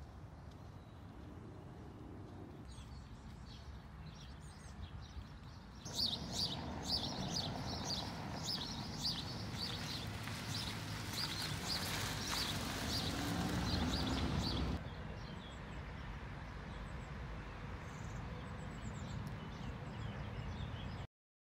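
Outdoor ambience: birds chirping and singing, many short high calls in quick succession through the middle stretch, over a low steady rumble. The whole sound cuts off abruptly near the end.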